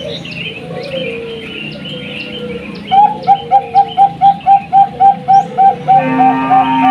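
Zebra doves (Bangkok-type perkutut) cooing among chirping small birds, a song used as a lure to set caged perkutut singing. About halfway in, a loud, fast run of short coo notes starts, about four or five a second.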